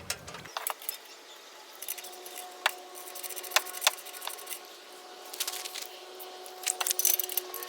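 Irregular sharp clicks and clinks of small hard parts being handled and fitted: exhaust whistle inserts being pushed into an exhaust tip. A faint steady hum runs underneath.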